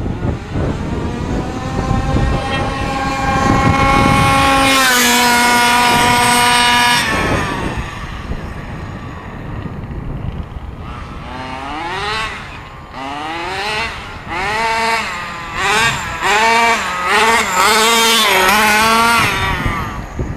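HPI Baja 5B RC buggy's two-stroke OBR gas engine, winding up to a long steady high-pitched full-throttle run that drops away after several seconds. In the second half it is revved in a string of short rising blips, about one a second.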